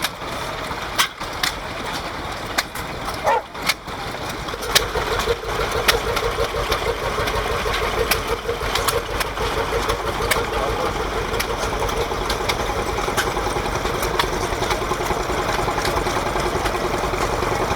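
Vintage stationary engines running, with irregular sharp clicks and knocks. A steady engine note comes in about four to five seconds in.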